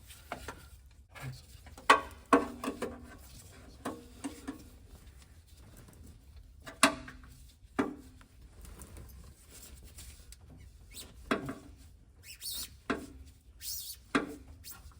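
Irregular clicks, knocks and short squeaks of a wrench working the oil filter loose on a 7.3 Powerstroke diesel.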